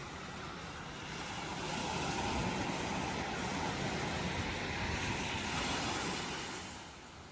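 Ocean surf: the rush of a wave swells up about a second and a half in, holds for several seconds, then falls away near the end.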